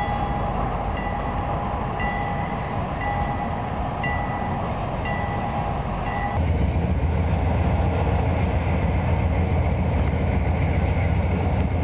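A ringing chime-like signal repeating about once a second over a steady tone, which stops about six seconds in; from then on a low steady rumble dominates.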